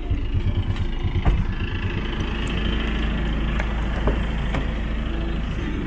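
Vehicle engine idling with a steady low rumble, with a few short knocks, the clearest about one and four seconds in.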